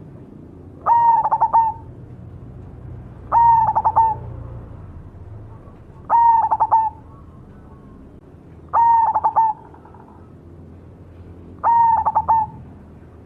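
Cemani (black) zebra dove (perkutut) singing its cooing song: five short phrases of quick, stuttering coos, repeated about every two and a half to three seconds.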